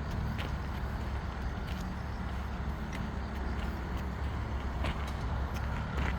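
An engine running steadily with a low drone, with a few short sharp clicks or taps scattered through it.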